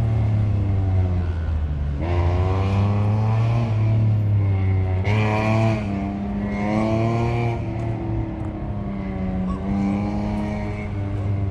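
Autocross car without mufflers run hard through the course, its engine revving up and dropping back over and over, the pitch rising and falling every second or two.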